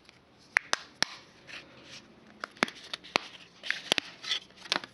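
Plastic back cover of a Samsung Galaxy Core Prime being prised off: a string of sharp clicks as its clips snap loose, with plastic rubbing and scraping in between.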